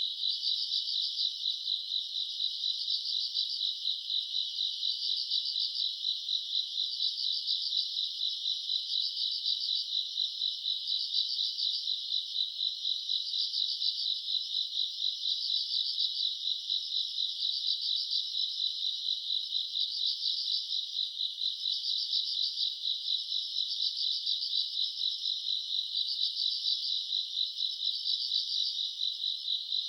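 Summer-night chorus of grass insects chirping: a continuous high, fast trill with brighter swells pulsing about once every second and a bit, steady throughout.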